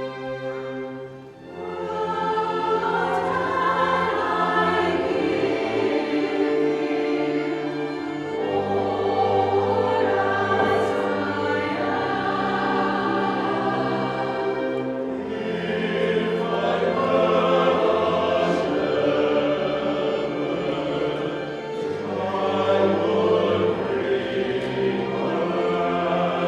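Choir singing with orchestral accompaniment, the voices coming in after a brief lull about a second and a half in.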